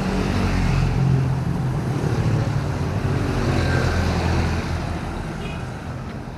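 A motor vehicle's engine running close by as it passes, fading after about four and a half seconds, over the steady hiss of drizzle and wet road.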